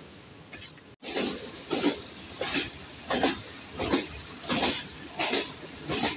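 Passenger train wheels clattering over rail joints in a steady rhythm, about one and a half strokes a second, beginning abruptly about a second in.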